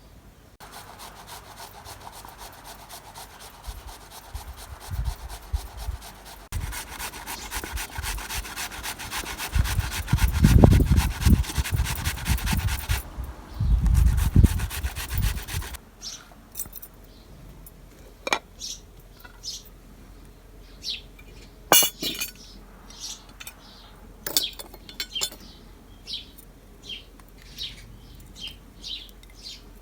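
Fast, even rubbing or scraping strokes with some heavy low thumps for about the first half, stopping suddenly. Short high chirps and a few sharp clicks follow.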